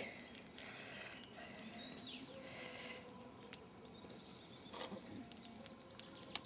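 Faint crackling of a bonfire: scattered sharp pops and ticks over a low hiss, with faint distant birdsong behind.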